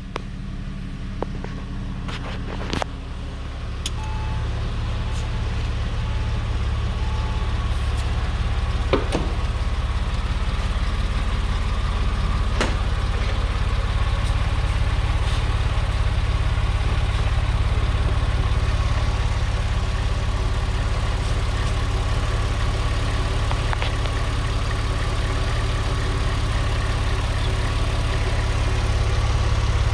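Porsche 911 Carrera 4S (996) 3.6-litre flat-six idling steadily after a cold start, its idle settled down from the cold fast idle. It grows a little louder a few seconds in, with a few faint clicks over it.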